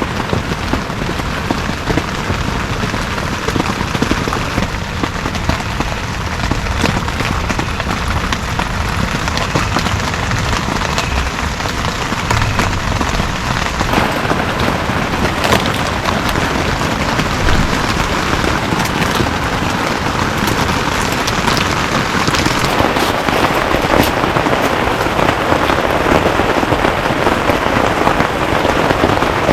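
Heavy rain falling steadily, a dense hiss full of fine drop ticks, growing heavier about halfway through and again later on.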